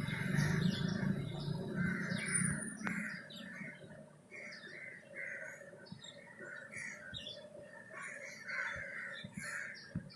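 A flock of crows calling over and over, many caws overlapping, with thinner, higher chirps among them. A low rumble under the calls fades out over the first few seconds.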